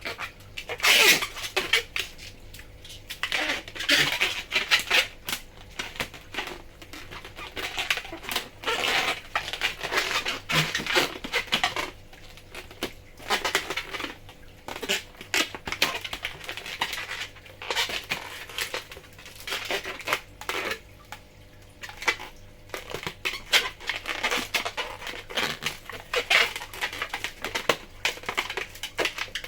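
Latex modelling balloon being folded and twisted by hand, the rubber rubbing and squeaking in irregular bursts.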